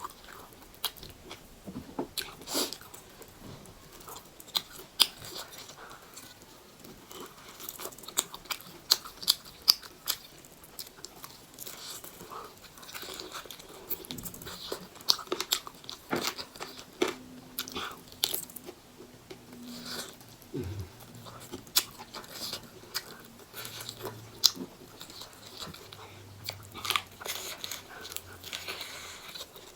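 Close-miked eating of chicken wings: bites, crisp crunches and chewing, in sharp clicks at irregular intervals.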